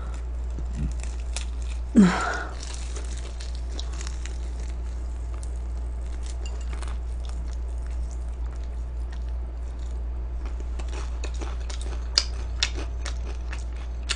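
Close-up chewing and crunching of crispy fried chicken, with a run of sharp crisp crunches in the latter half. A brief falling vocal sound stands out about two seconds in, over a steady low hum.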